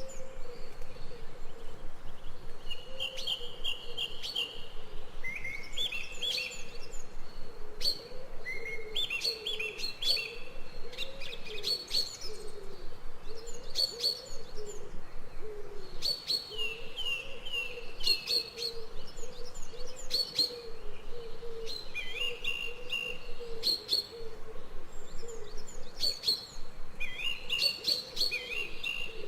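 Several birds singing: short, high chirping phrases repeat every two to three seconds over a low, wavering drone.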